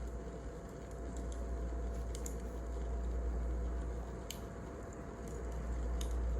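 Wood fire burning: a steady low rumble with a few sharp crackles and pops.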